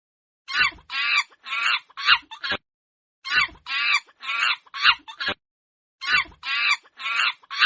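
Chicken clucking: three runs of about half a dozen quick calls each, separated by brief silences.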